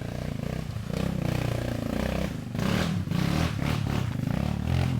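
Dirt bike engine running and being revved up and down, with clattering noise mixed in over the second half.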